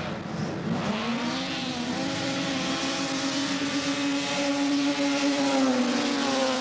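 Racing snowmobile's two-stroke engine accelerating hard on a grass drag strip. The pitch climbs steeply about a second in, holds high at full throttle, and eases off slightly near the end.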